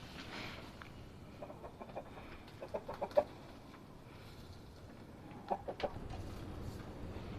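Domestic hens clucking in short runs of quick clucks, about one and a half, three and five and a half seconds in.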